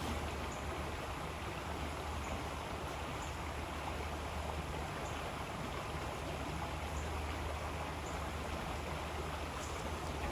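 River water flowing steadily: an even rushing sound with a low rumble underneath.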